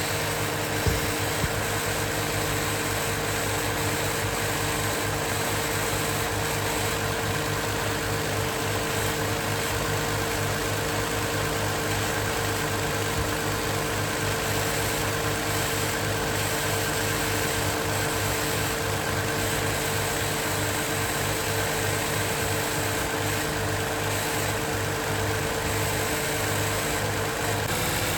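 Toyota 3.5-litre V6 idling steadily, free of the rattle and growl of a worn water pump bearing. Two short clicks about a second in.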